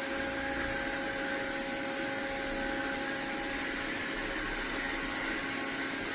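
Robot vacuum running: a steady rush of air with an even motor whine, starting abruptly and holding constant.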